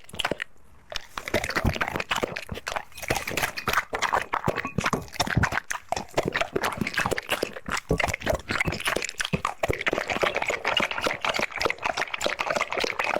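A puppy eating dry kibble: quick, irregular crunching and clicking of the pieces between its teeth, with a short pause just after the start.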